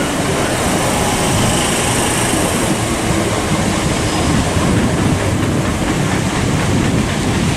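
Southeastern Class 375 Electrostar electric multiple-unit train moving along the platform, a steady loud noise of the train running on the rails.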